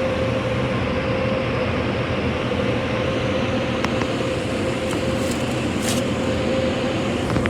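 Moving dryer blowers of an automatic in-bay car wash running, a steady loud rush of air with a constant whine.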